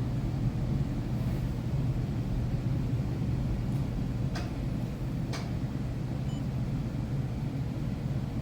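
Steady low rumble, like a machine or fan running, with two sharp clicks about a second apart near the middle.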